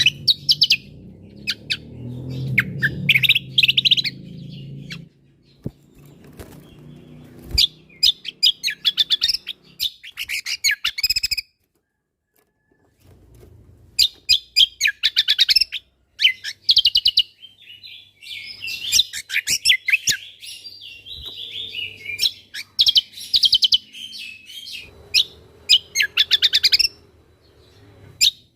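Cucak kombo (kecial kombo) singing in repeated bursts of rapid, high chirps and trills with short pauses between them: the rapid-fire 'tembakan' song phrases. A low background rumble sits under the first few seconds.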